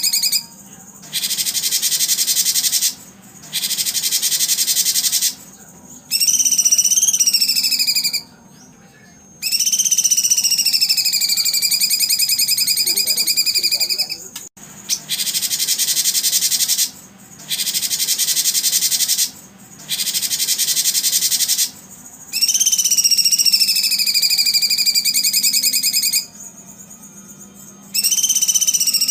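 Songbird song: a run of long, buzzy, high-pitched trilled phrases, each lasting from about a second and a half to five seconds, with short pauses between them; some phrases slide up and down in pitch.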